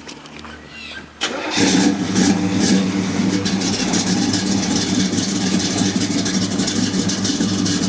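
1968 Pontiac GTO's 400 V8 starting about a second in, coming up loud just after it catches, then running steadily through Flowmaster mufflers. The engine is a fresh build with a mild cam, one step above stock.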